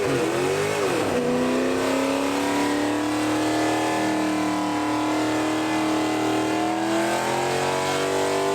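Car engine revved up and down, then held at high revs for several seconds, its pitch creeping slowly upward before easing off slightly near the end.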